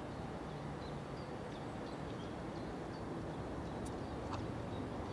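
Steady open-air background noise with faint, short bird chirps. A low aircraft engine hum comes in about four seconds in and starts to build near the end.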